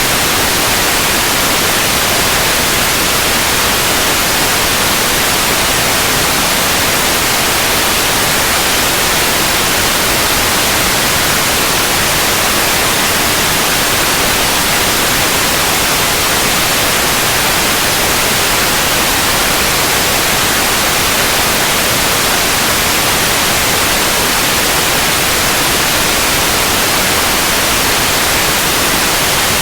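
Steady white noise: an even, unchanging hiss across the whole range of pitch, loudest in the upper frequencies.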